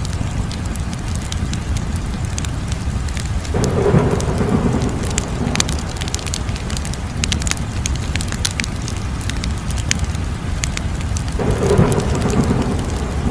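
Wood fire crackling, with many sharp pops and snaps over a steady low rumble. Two louder swelling rushes come through, about four seconds in and again near the end.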